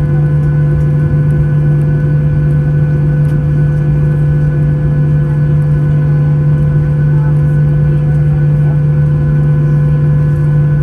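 Boeing 737-800's CFM56-7B turbofan engines heard from inside the passenger cabin: a steady, loud drone with a strong low hum and a few constant higher tones over a rushing noise.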